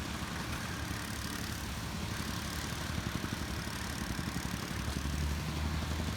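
A construction vehicle's engine running steadily, with a low hum that grows a little stronger about five seconds in, over steady outdoor noise.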